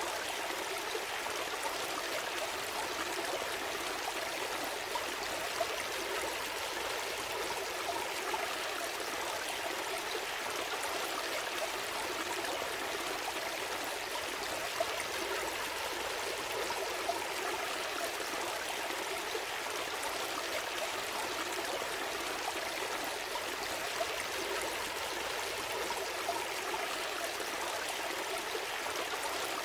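Gentle stream flowing steadily, a constant babble of running water with small splashes now and then.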